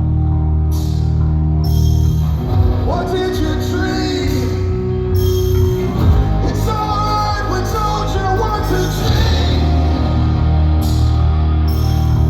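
Rock band playing live, with a sustained low drone under it and a singer's voice in the middle stretch.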